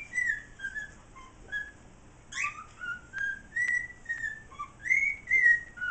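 Pet cockatiels whistling a string of short notes, several sliding up or down in pitch, with a few sharp clicks among them.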